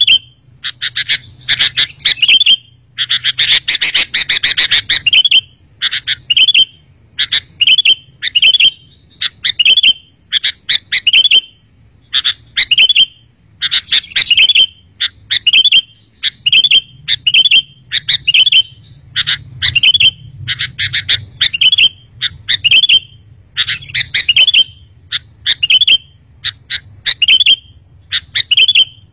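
Sooty-headed bulbul (kutilang) calling over and over: short, loud chattering phrases about once a second, each a quick run of sharp notes ending in a clear whistled note.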